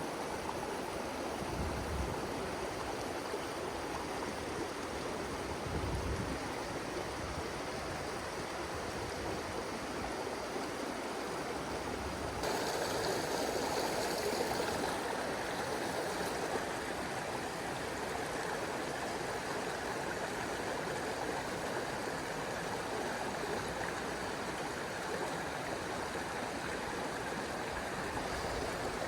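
Mountain stream water rushing and gurgling over rocks, a steady rush that swells louder and brighter for a few seconds around the middle.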